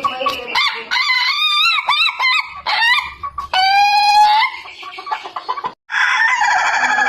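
Ayam ketawa (Indonesian laughing chicken) rooster crowing: a quick run of short rising and falling notes, then one long held note. After a brief break near six seconds, another crow with falling notes follows.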